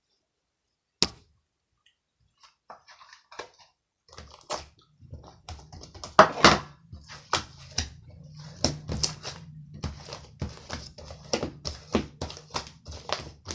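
A series of irregular clicks and knocks, sparse at first and then coming rapidly, over a low hum that starts about four seconds in.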